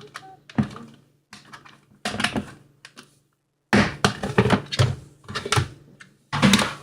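Hard plastic knocks and clatter from a Tupperware cake taker being handled and adjusted, in several short clusters, the busiest stretch about four to six seconds in.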